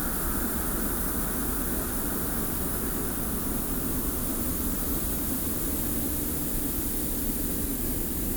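Steady desert wind with a continuous hiss of blowing sand and a low rumble underneath, even and unchanging, with no gusts or separate sounds.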